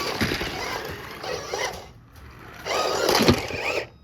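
Small electric RC car motors whirring at full throttle in two bursts, their whine gliding up and down, with light knocks from the cars.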